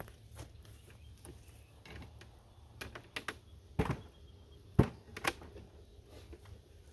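Sharp wooden knocks and clacks from beehive boxes and frames being handled as the hive is taken down. There is a cluster of light clicks, then two loud knocks about a second apart near the middle.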